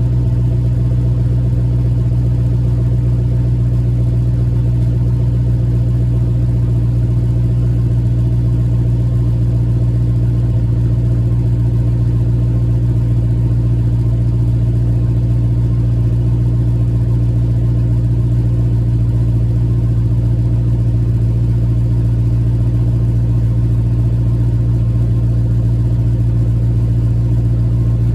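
2004 Pontiac GTO's 5.7-litre LS1 V8, breathing through JBA shorty headers into the stock exhaust, idling steadily after a cold start, with the header exhaust leak repaired.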